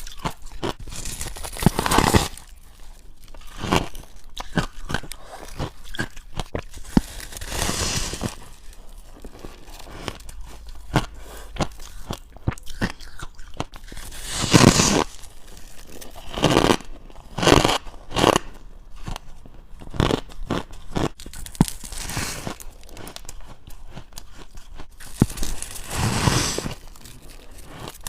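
Close-up crunching and chewing of freezer frost (white frost): repeated crisp bites and crackly chews, with a louder crunch every few seconds.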